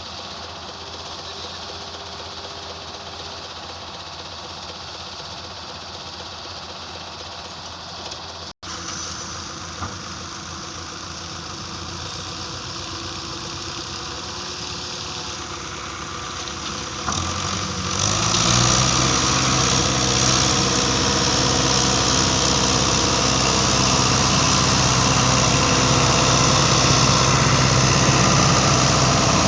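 Heavy machinery engines running steadily at a work site, with a momentary gap about eight seconds in. From about eighteen seconds in a louder, closer engine with a steady low hum takes over.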